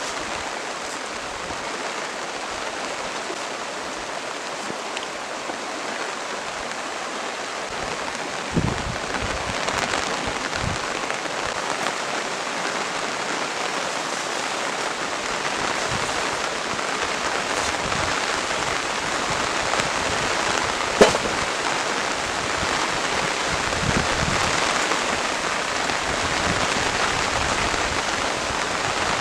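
Steady rain falling, a dense even hiss, with a few scattered knocks; the sharpest comes about twenty seconds in.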